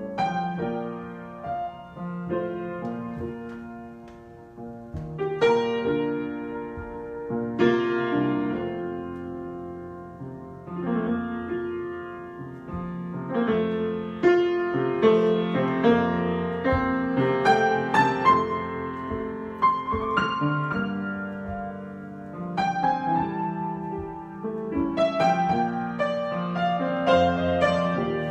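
Solo piano improvisation: chords and melody notes struck and left to ring and fade, in phrases that swell and ease off.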